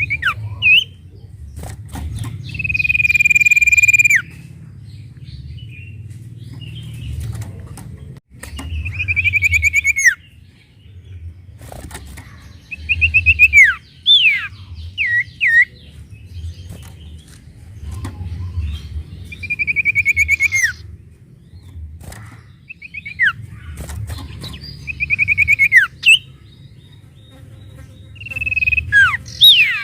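Sirtu songbird singing in repeated phrases every few seconds: a high, rapidly trilled note held about a second, followed by quick downward-sliding whistles, over a steady low rumble.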